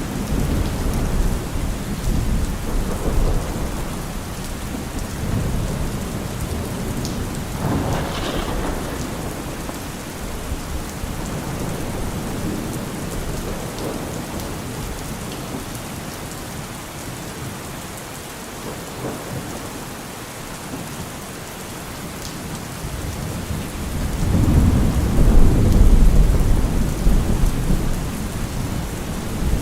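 Heavy rain falling steadily on a car roof, with rolling thunder: a sharper crack about 8 seconds in, the rumbling easing off through the middle, then a loud rumble swelling about 24 seconds in.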